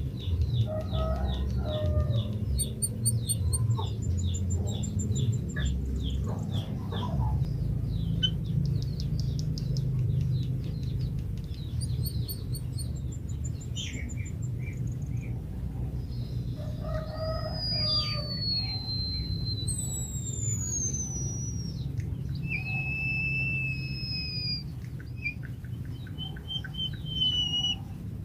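White-headed munia (emprit kaji) singing: a run of quick, evenly repeated high chirps, then from about halfway on long clear whistles, some sliding downward and some held level. A steady low rumble runs underneath, and there are a few lower calls near the start and middle.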